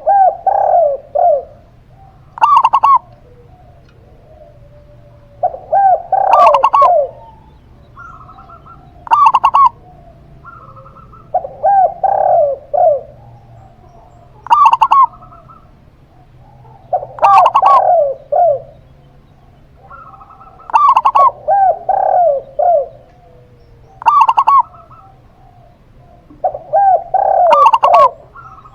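A zebra dove and a spotted dove cooing by turns. One bird gives short, higher coos, and the other gives lower, longer rolling phrases of several notes. A call comes every two to three seconds.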